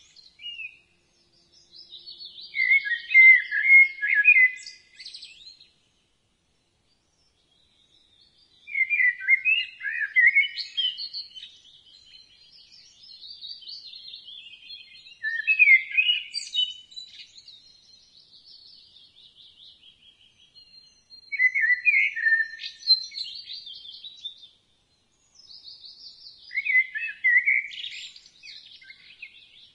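Blackbird singing: about five separate song phrases of warbling notes, each trailing off into higher twittering, with pauses of a few seconds between them.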